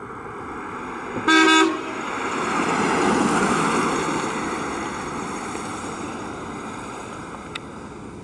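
A car horn honks once, briefly, about a second and a half in. Then a vehicle passes, its road noise swelling and slowly fading away.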